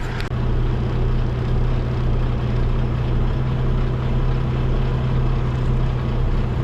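Semi truck's diesel engine running steadily at low revs with a constant low hum while the rig reverses slowly.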